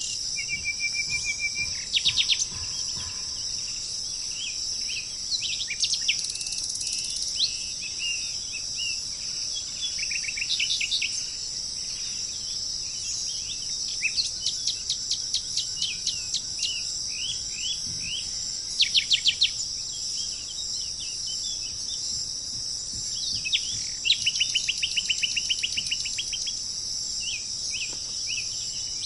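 Songbirds calling and singing, with short chirps, whistled notes and fast trills repeating in runs, over a steady high-pitched insect chorus.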